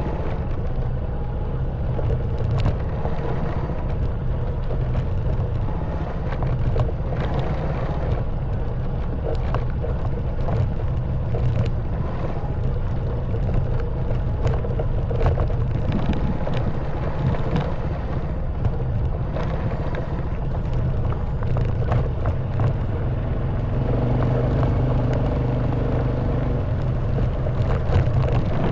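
Honda Wave 110cc single-cylinder four-stroke motorbike engine running steadily on a rough stone and mud track, with frequent short knocks and rattles as the bike jolts over the stones. Near the end the engine note briefly grows a little louder and steadier.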